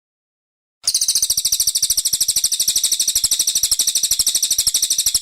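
Brown cililin song from a masteran recording: a fast, even trill of high chirping notes, about fourteen a second, starting abruptly about a second in.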